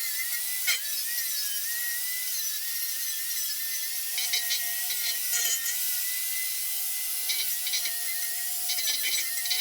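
MIG welder running gasless flux-core wire: a steady arc hiss with a faint wavering whine and bursts of crackle.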